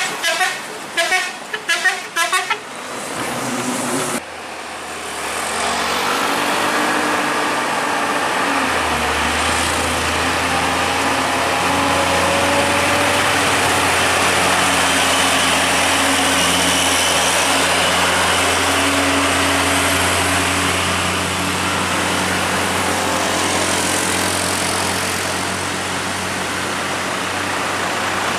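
A vehicle horn sounding in a quick run of short toots for the first few seconds, then a heavy truck's diesel engine running steadily and loudly on the hill for the rest.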